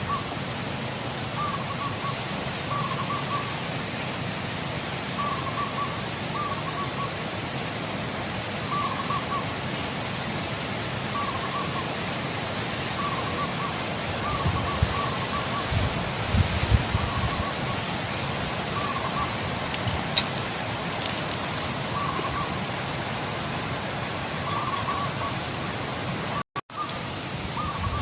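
Wild zebra dove cooing, a short run of rolling coo notes repeated about every one and a half to two seconds, over a steady outdoor hiss. Low rumbles near the middle, and the sound cuts out for a moment near the end.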